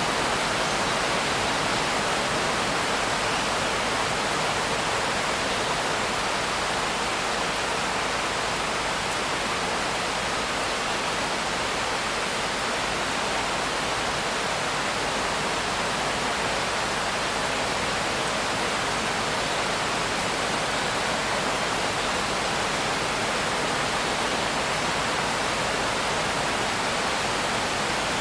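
Steady heavy rain as a dense, even hiss. No single drops or changes stand out.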